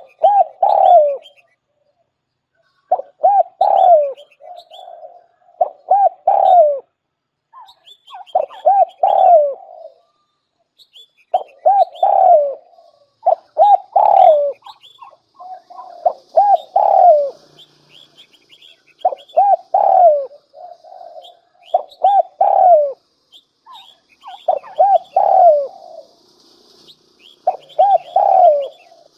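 Spotted dove cooing: a decoy bird giving its territorial coo phrase over and over, about every two to three seconds, each phrase a few swooping notes. Fainter high chirps of small birds sound above it.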